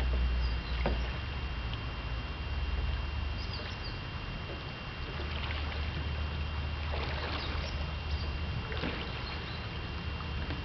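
Water splashing around a small boat: several short splashes over a steady low rumble and a faint steady high tone.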